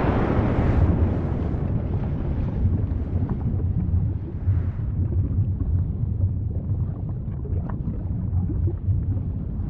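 Erupting volcano's deep, steady rumble, with a few faint crackles; the roar of a blast dies away in the first second.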